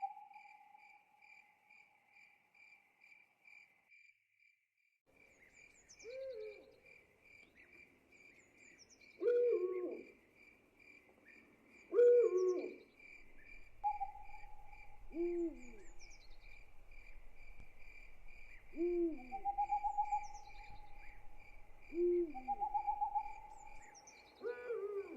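Owl hooting, about seven low calls spaced a few seconds apart starting several seconds in, over a steady pulsing chirp of crickets. A drawn-out higher call fades out early and comes back a few times later on.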